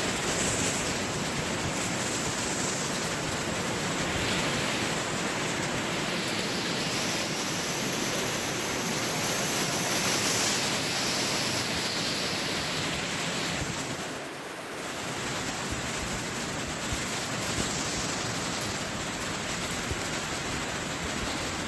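Hurricane-force wind and driving rain: a steady, even rush of noise with a brief lull about two-thirds of the way through.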